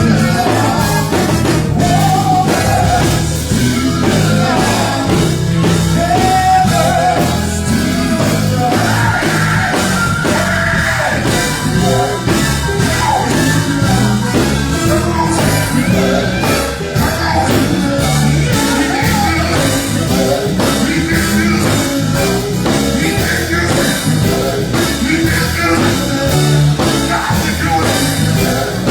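Gospel group singing with an amplified live band: lead vocals over bass and a steady drum beat.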